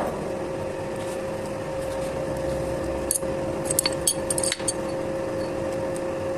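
A workshop machine running with a steady hum. A few light metallic clicks and clinks come between about three and four and a half seconds in.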